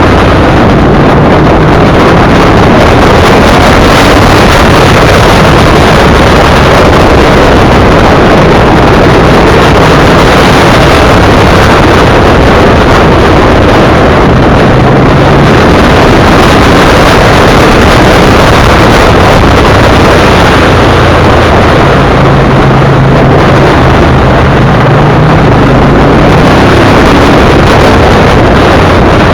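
Loud wind rush on the microphone of a motorcycle at cruising speed, with the bike's V-twin engine running steadily underneath.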